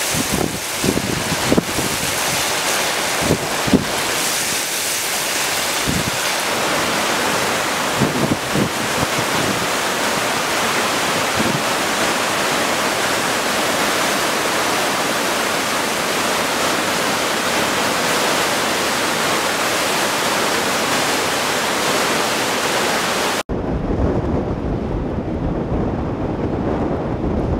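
Storm wind blowing hard across the microphone over a constant rush of water, with a few knocks in the first few seconds. About 23 seconds in it cuts abruptly to a duller, bassier recording of the same kind of storm noise.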